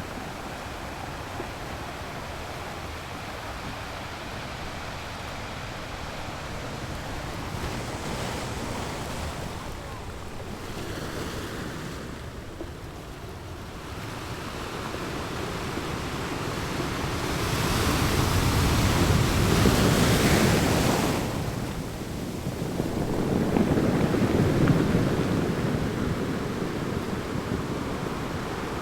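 Sea waves breaking on a sandy beach: a steady wash of surf, with two louder breakers rolling in during the second half.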